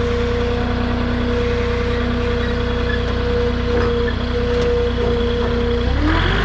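Forklift engine running at a steady idle, then revving up near the end as its pitch rises.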